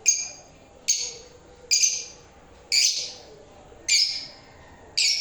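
Pet lovebirds (small parrots) calling: six shrill, harsh chirps, about one a second.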